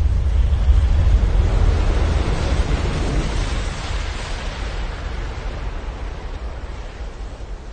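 Sound-design rumble and rush of a volcanic ash cloud sweeping over a city: a deep rumble with a rushing, wind-like noise that swells about halfway through, then fades gradually.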